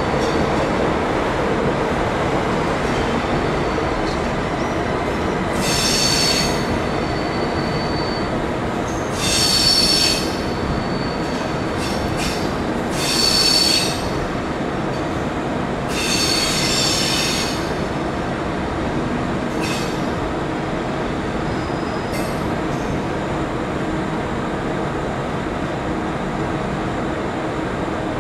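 A train rolling slowly through the station with a steady rumble, its wheels squealing in about six short, high-pitched bursts, loudest about a third and halfway through.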